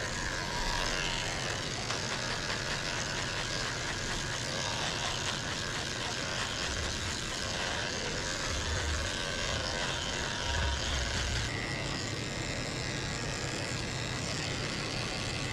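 Electric dog-grooming clippers with a number 7 blade running steadily through a thick double coat, over the steady rush of a drying fan.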